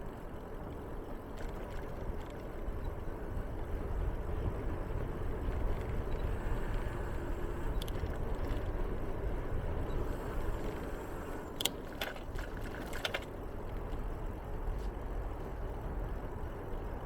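Steady low rumble of a bicycle rolling along a path, with a short run of sharp clicking rattles about twelve seconds in.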